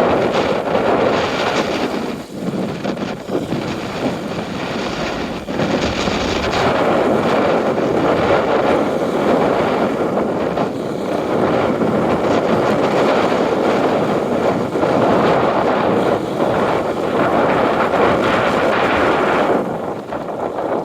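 Wind gusting across a lakeshore and buffeting the microphone, with lake water lapping at the shore, swelling and easing from moment to moment.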